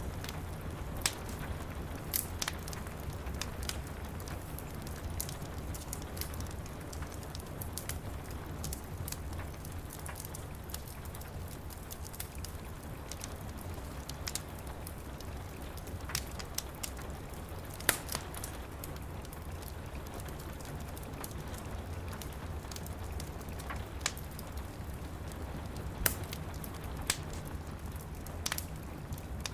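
Steady rain with a low rumble under it, and a wood fire crackling with scattered sharp pops, the loudest about eighteen and twenty-six seconds in.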